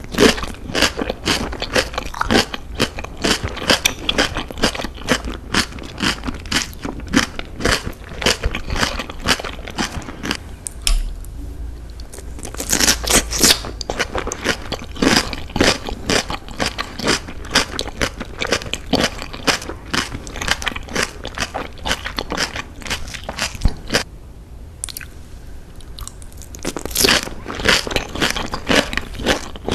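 Close-miked chewing of salmon-wrapped rolls with a crisp vegetable filling: a dense run of rapid crunches. Louder bursts of crunching come about thirteen seconds in and again near the end.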